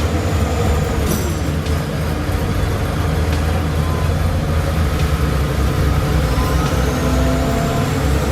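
Heavy diesel engine running steadily with a continuous low rumble.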